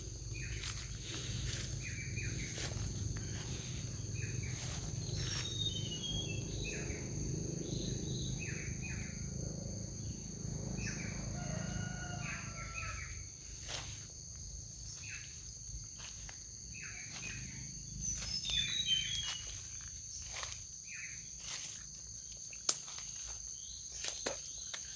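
Rural birdsong: several birds chirping and calling in short notes over a steady high drone of insects. A low rumble sits under the first half and fades out about halfway through.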